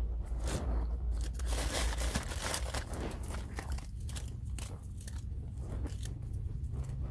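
Snow crunching and crackling as it is squeezed and packed by hand into a snowball, in a dense, irregular run of crisp crunches.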